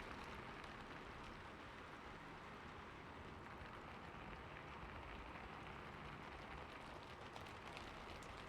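Soft, steady rain with scattered drops tapping, the patter growing a little busier near the end.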